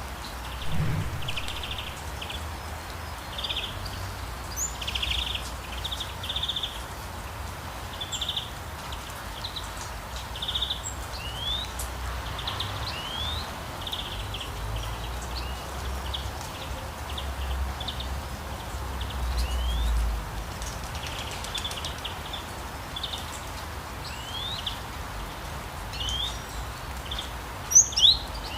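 Birds calling: a run of short chirps and quick rising whistles, with a louder pair of calls near the end, over a steady low rumble.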